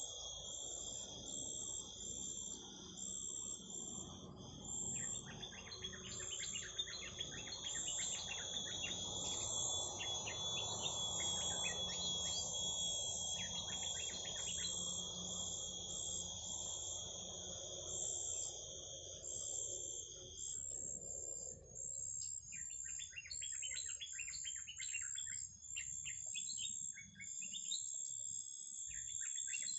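Small birds chirping in quick bursty runs over a continuous high, shrill insect-like tone, which cuts off about two-thirds of the way through. A low background rumble fades out at about the same time, leaving the chirps clearer.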